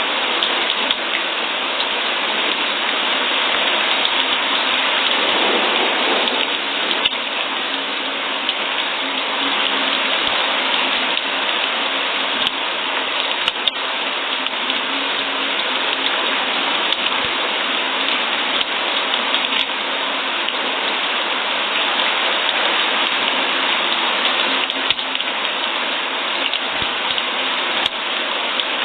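Steady rain falling, an even, continuous hiss with a few faint drop ticks scattered through it.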